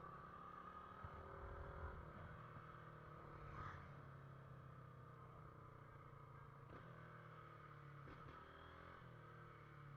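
Faint motorcycle engine running steadily at low revs, its pitch drifting only slightly.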